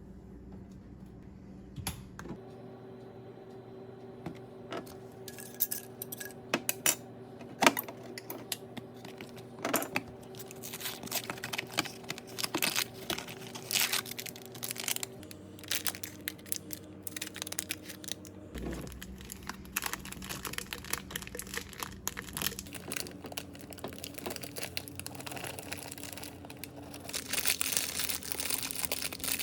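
A run of small irregular clicks, taps and crinkles from kitchen items and packaging being handled, busier near the end.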